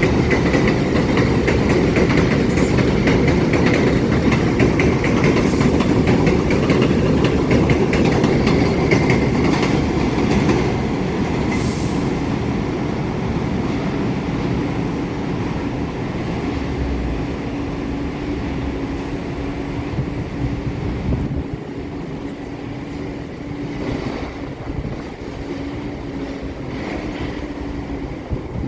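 New York City Subway 1 train rumbling and clattering over the rails, loud for about the first ten seconds and then easing off. A short high hiss comes near the middle, and a steady hum carries on under the quieter rumble after it.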